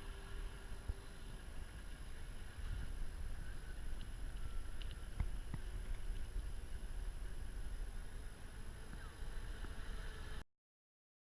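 Radio-controlled model boat running on the water: a steady low rumble with a faint motor whine and a couple of light clicks about five seconds in. The sound cuts off abruptly near the end.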